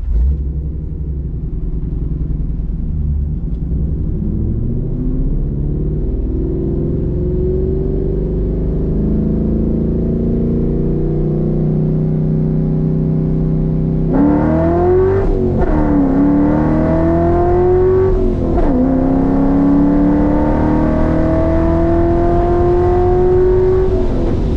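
Roush Mustang engine heard from inside the cabin, pulling away: a low rumble with the pitch slowly rising at first, then about halfway it gets louder and revs up, dropping back twice in quick succession at gear changes before a long steady climb in pitch.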